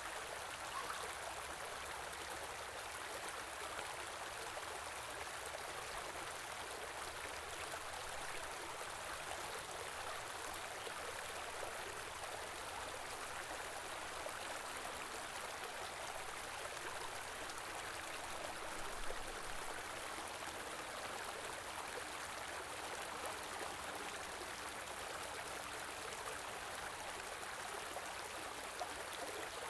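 Small river running steadily over rocks, a continuous rushing and burbling of water.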